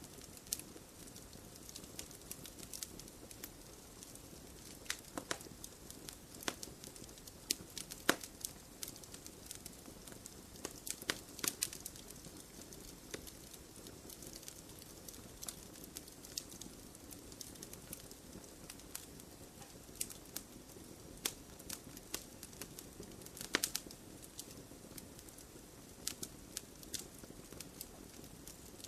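Campfire of burning wood crackling and popping, with sharp irregular snaps over a soft steady hiss; the loudest pops come about 8 seconds in, around 11 to 12 seconds and near 23 seconds.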